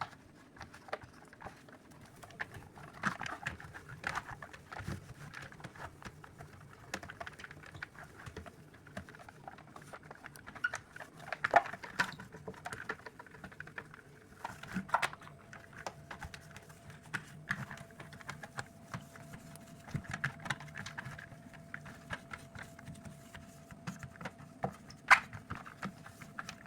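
Small household objects being handled, making scattered light clicks and taps with a few sharper knocks; a faint steady hum comes in about halfway through.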